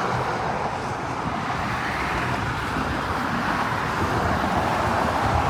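Steady outdoor rushing noise, with an uneven low rumble of wind on the microphone.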